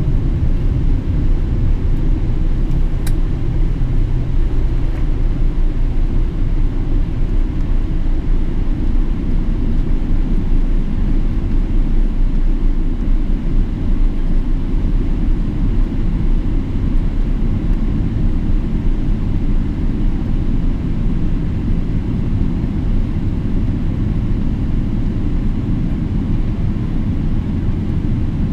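Boeing 777-300ER with GE90 engines, making a steady low rumble that holds level without rising or falling.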